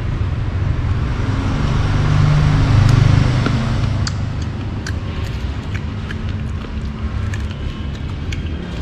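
Road traffic rumbling, with a passing vehicle swelling to its loudest about three seconds in and then fading, and a few faint clicks over it.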